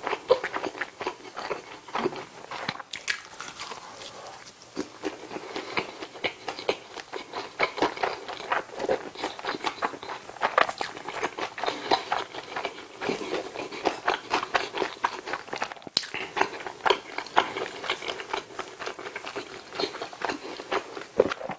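Close-miked chewing of a McDonald's bulgogi burger: a steady run of wet, sticky mouth sounds and small irregular clicks, with a quieter stretch about four seconds in.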